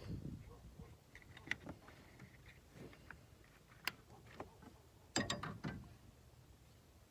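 Faint clicks and light knocks of hand tools and small parts being handled, with one sharp click about four seconds in and a quick cluster of clicks a little after five seconds.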